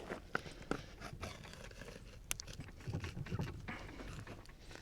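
Faint, scattered clicks and knocks of hand-butchering work: a knife and hands handling a cut of raw pork on a table, with one sharper click about halfway through.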